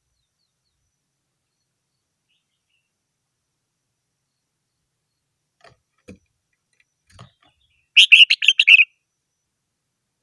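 Red-whiskered bulbul giving one short, loud burst of song, about six quick notes in under a second, starting about eight seconds in. A few faint low knocks come shortly before it.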